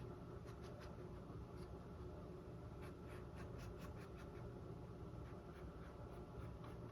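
Faint strokes of a paintbrush dabbing and brushing acrylic paint onto a stretched canvas: a run of soft, scratchy little strokes, thickest about halfway through, over a low steady hum.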